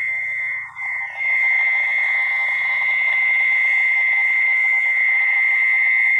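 A steady, high-pitched night-time animal chorus, as of calling frogs or insects, that breaks off briefly twice in the first second and a half and then holds steady.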